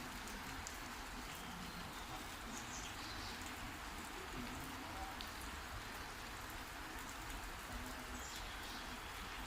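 Heavy rain falling steadily, with many individual drops ticking sharply close by.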